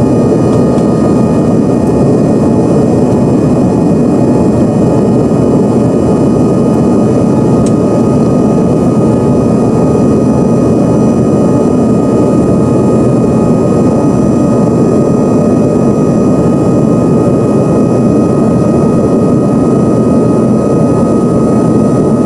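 Cabin noise inside an Embraer ERJ-145 jet in flight: a loud, steady rush of air and engine noise from its rear-mounted Rolls-Royce AE 3007 turbofans, with a thin steady whine above it.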